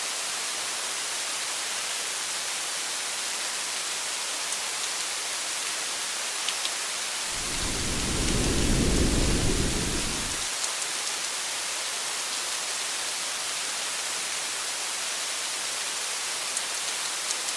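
Steady hiss of rain with a few faint drop ticks, and a low roll of thunder lasting about three seconds in the middle.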